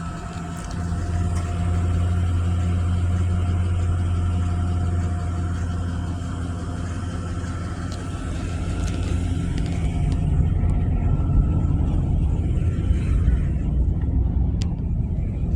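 A motor vehicle's engine running with a low rumble and a faint steady whine over it, getting louder about a second in.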